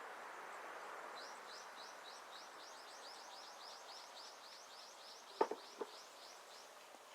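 A rapid, even series of short, high, rising chirps, about four or five a second, lasting several seconds, over a steady outdoor background noise; two sharp knocks come near the end of the chirping.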